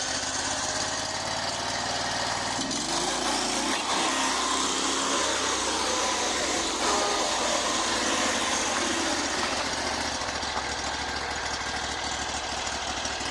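Predator 670 V-twin engine driving a small homemade truck, picking up revs about three seconds in as it accelerates hard under load, then running on and easing off a little near the end.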